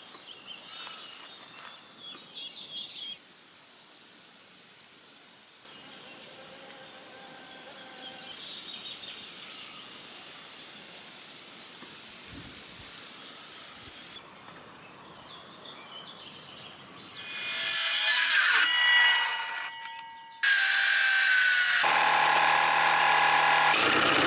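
A high, steady insect trill pulsing about four times a second, then quiet outdoor ambience. Near the end a power tool starts abruptly and runs loud and steady.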